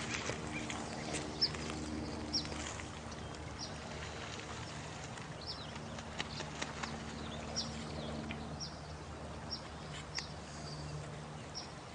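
Night nature ambience: an even rush of water under short, high, falling chirps repeated roughly once a second, with scattered sharp clicks.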